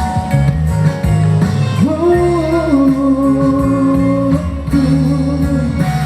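Cantonese pop ballad performed with singing over guitar accompaniment. A voice slides up into a long held note about two seconds in and sustains it before the next phrase.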